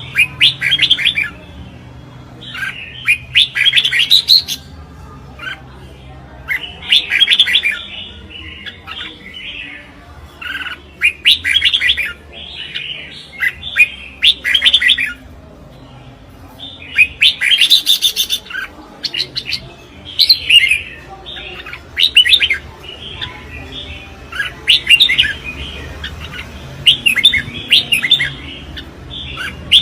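Red-whiskered bulbuls singing in competition, short bright warbling phrases coming one after another with brief pauses between them.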